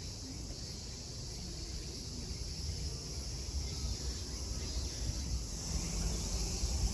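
Cicadas droning in a steady, high, hiss-like chorus, with a low rumble underneath that grows louder toward the end.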